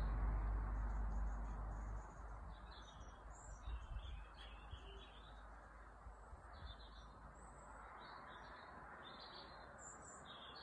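Faint bird chirps come at irregular intervals over a low background hiss. A low rumble drops away about two seconds in.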